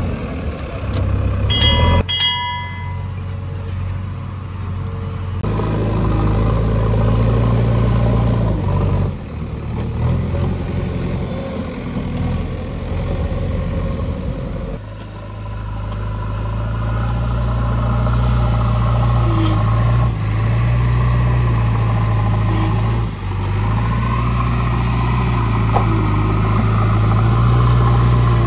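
JCB backhoe loader's diesel engine running steadily under work, with short dips and changes in its note. A brief high beep sounds about two seconds in.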